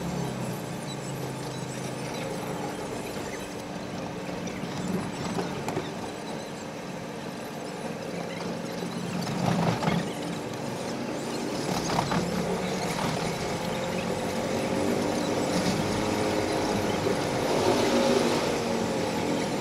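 Electric commuter train running along the track, heard from on board: a continuous rumble of wheels on rails with steady whining tones. Sharp rattles come about halfway, and wavering squealing tones slide up and down near the end.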